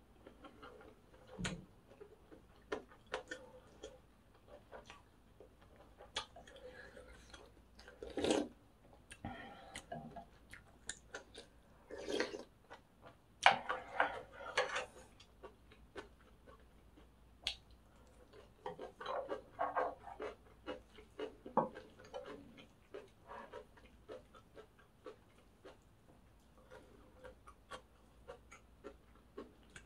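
Close-miked chewing of crunchy pork-cartilage fried rice: irregular sharp crackles and crunches, in denser runs several times, with a few clinks of a metal spoon against the plate.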